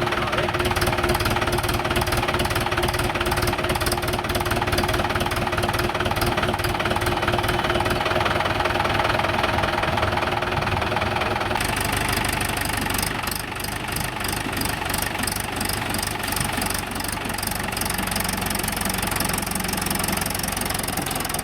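Tractor diesel engine running steadily with a rapid, even knocking beat. The sound changes abruptly about eleven seconds in.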